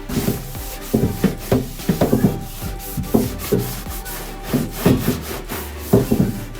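Sponge scrubbing the inside of a microwave in a run of quick, uneven strokes, over soft background music.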